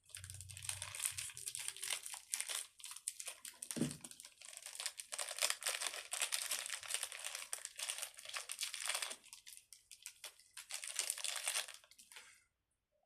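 Crinkly plastic being handled and crumpled in the hands, a near-continuous crackle with a short lull about nine seconds in, stopping just before the end.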